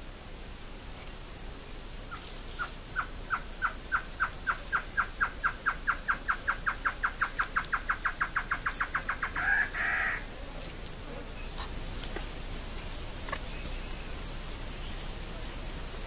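A bird calling: a long run of short, clear notes that starts about two seconds in, speeds up steadily and ends around ten seconds in with a louder, rougher final note. A steady high-pitched insect buzz runs underneath and grows stronger over the last few seconds.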